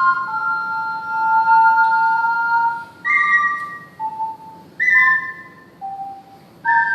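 Ceramic triple ocarina played solo in two-part harmony, two chambers sounding at once. A held pair of notes comes first, then shorter notes broken by brief pauses in the second half.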